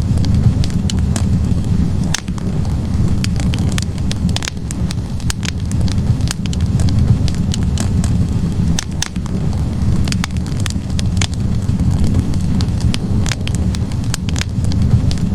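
Wood fire burning in a fireplace: a steady low roar of the flames with frequent irregular crackles and pops from the burning logs.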